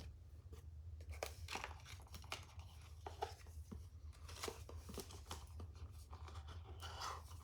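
Packaging being torn open and crinkled by hand, in irregular rustles and small clicks, as an advent calendar item is unwrapped.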